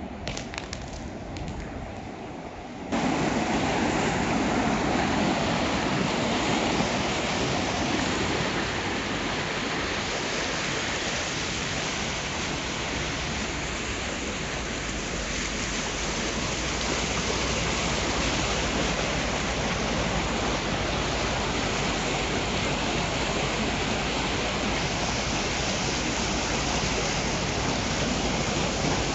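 Steady rushing noise, loud and even, that starts abruptly about three seconds in after a few faint ticks.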